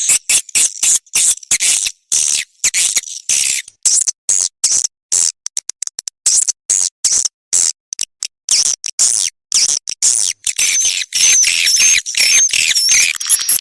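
Swiftlet lure call for a swiftlet house: rapid trains of sharp clicks and high twittering chirps in quick bursts with short gaps. Near the end, wavering high chirps stand out more.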